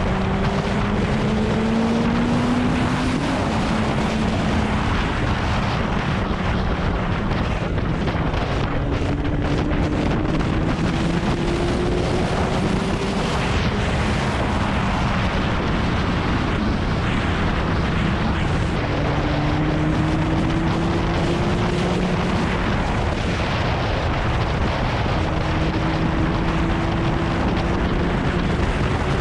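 Kawasaki Ninja ZX-9R inline-four sportbike engine under way, its pitch climbing slowly and then dropping back several times, under heavy wind rush on the helmet-mounted microphone.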